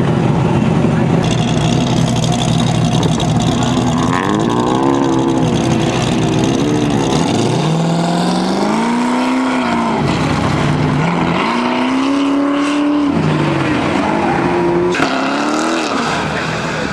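Loud car engines on an autocross course, revving up and falling away again and again as drivers accelerate and lift between the cones. A steady engine note at first, then several rising and falling sweeps in pitch from about four seconds in.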